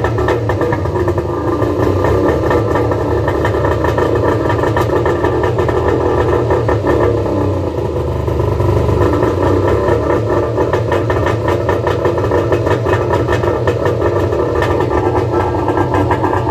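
Two-stroke personal watercraft (jet ski) engine running steadily, just after being started.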